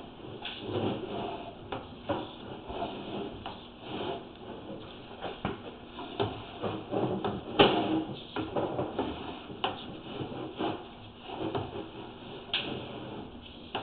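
Irregular scraping, rubbing and short knocks as a sewer inspection camera's push cable is drawn back through the line.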